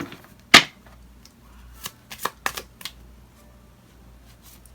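Tarot cards being shuffled and handled: one loud slap about half a second in, then several quick flicks and taps a couple of seconds later.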